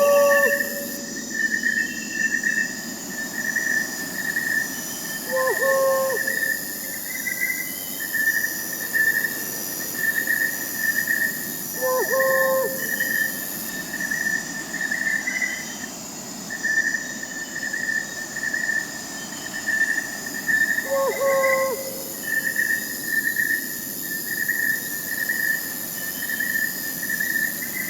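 Crickets chirping steadily in pulsing bursts, with a short owl hoot repeating every six to nine seconds over the top.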